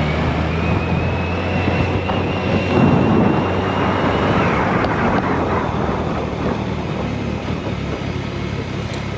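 Motorcycle engine running steadily at low road speed, with wind buffeting the microphone. A thin high whine starts under a second in and stops about four and a half seconds in.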